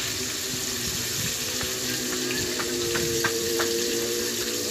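Food frying in hot oil, a steady sizzle with scattered crackles and pops, over a steady low hum.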